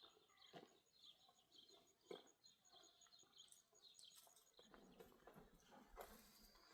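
Faint small birds chirping again and again, with a thin high-pitched ticking about six times a second that stops about five seconds in.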